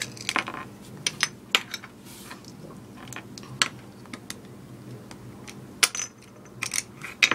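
Small hard plastic toy pieces being handled and knocked together: a string of sharp, irregular clicks and clacks, about a dozen of them.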